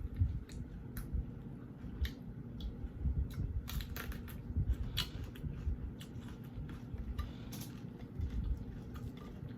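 A person chewing fried chicken breast close to the microphone, with irregular small crunches and crackles from the crispy coating.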